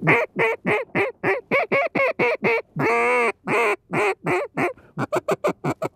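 Buck Gardner FireCracker double-reed duck call blown in a string of mallard-hen quacks, each dropping in pitch, with one longer drawn-out note about halfway through. It ends with a quick run of short clucks, about eight a second.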